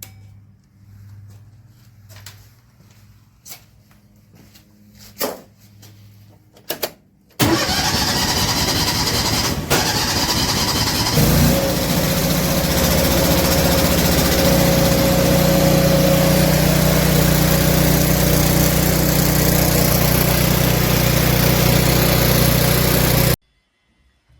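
A few faint clicks, then a car engine cranks for about four seconds, catches, and settles into a steady idle that cuts off abruptly near the end.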